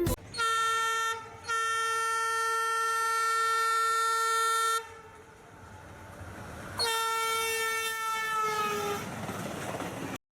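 Train locomotive horn blowing three times: a short toot, a long blast of about three seconds, then a third blast that drops in pitch as it fades, with train rumble between the blasts.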